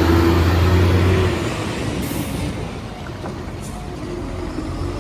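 Heavy bus engine droning under load, easing off about a second in, followed by a weaker rumble with two short air hisses.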